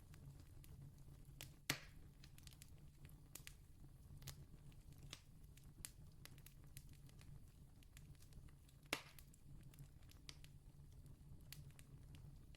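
Campfire crackling faintly, with scattered small snaps and two louder pops, one near the start and one about two-thirds through, over a steady low hum.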